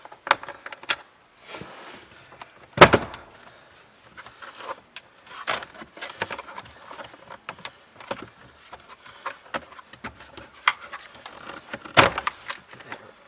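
Knocks, clicks and scraping of parts and hand tools being handled in a car's engine bay as a freed component is worked loose, with a loud thump about three seconds in and another near the end.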